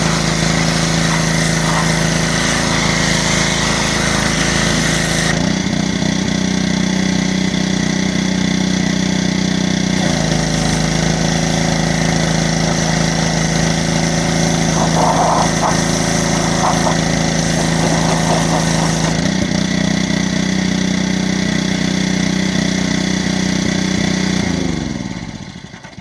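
Gas pressure washer's small engine running steadily while the spray hisses on and off as the wand trigger is pulled and released. Near the end the engine slows, its pitch falling, and stops.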